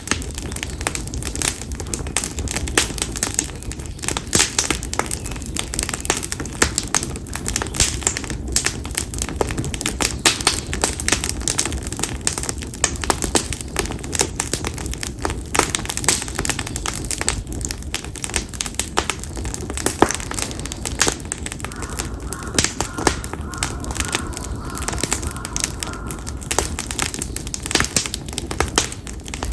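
Campfire of split konara oak logs burning with steady, irregular snapping and crackling over a low rumble of flame.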